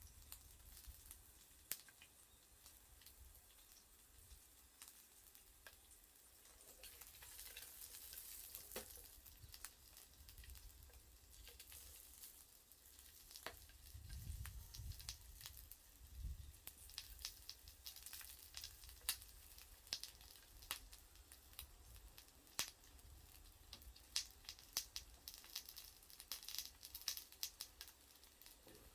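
Sausages sizzling faintly over a wood fire in a small wood stove, with many sharp crackles and pops that come thicker in the last third.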